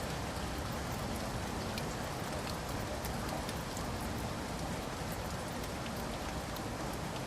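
Steady rain falling, a constant hiss with many small drop taps scattered through it.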